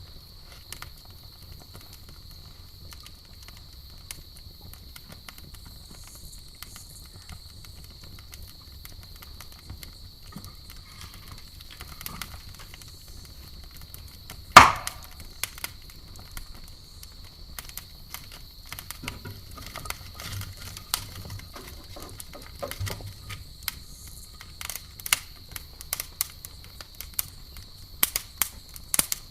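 Campfire crackling with scattered sharp pops and one loud pop about halfway through; the pops come more often near the end. A faint steady high-pitched hum runs underneath.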